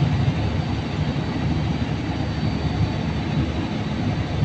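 Steady low mechanical rumble, like a large engine running, with a faint thin high-pitched whine over it.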